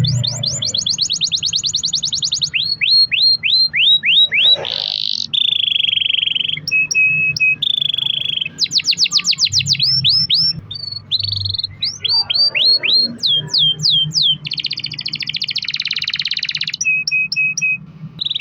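Domestic canary singing a long continuous song: rapid trills of repeated downward-sweeping notes alternating with buzzy rolls and steady-pitched chattering tours, each phrase lasting a second or two and changing straight into the next.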